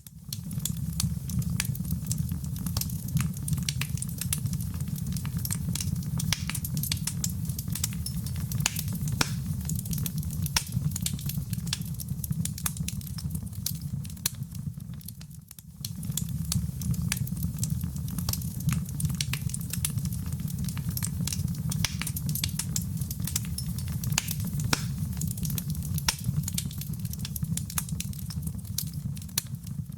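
Fireplace fire burning, with a steady low rumble under dense small crackles and pops. The sound dips briefly about halfway through, then carries on.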